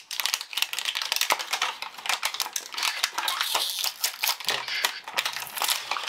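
Plastic toy packaging being handled and unwrapped: a dense run of quick crinkling and crackling clicks.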